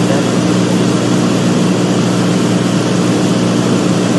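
Steady drone of a Cessna 210's piston engine and propeller, running at constant power with an unchanging low hum and no rise or fall in pitch.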